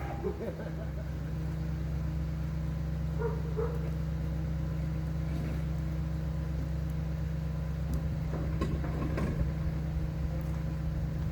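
A vehicle engine idling steadily, a constant low hum, with a couple of faint short sounds over it about three and a half seconds in.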